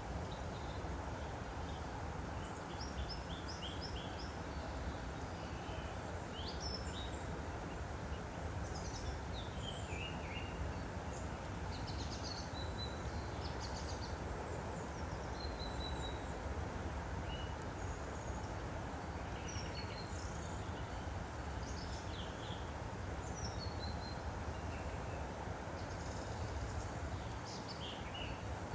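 Stream water flowing steadily, with small birds chirping and trilling on and off throughout.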